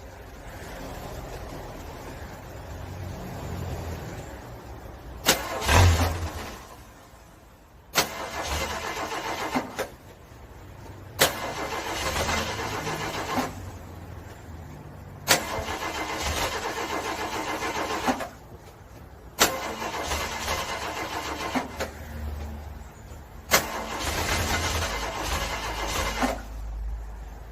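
A car's starter cranking a cold engine in repeated bursts of two to three seconds, each starting with a click and cutting off. The engine struggles in the freezing cold and does not clearly catch.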